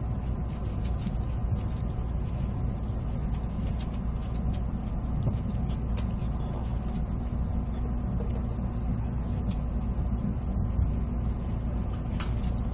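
Steady running rumble of an E657-series electric limited express train, heard from inside the passenger car, with a few faint clicks.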